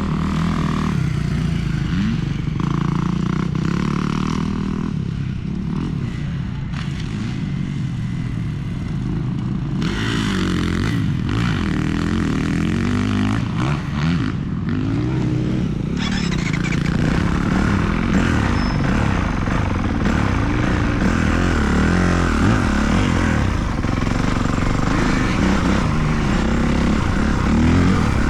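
Motocross dirt bike engine being ridden around the track, revving up and easing off again and again as the rider opens and closes the throttle.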